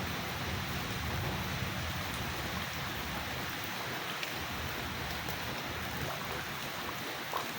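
Steady rain falling, with scattered sharper drop impacts, over a low rumble that fades away in the first half.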